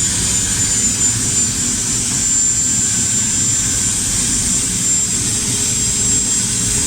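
Electric power tool running at full speed with a steady high-pitched whine over a rushing noise.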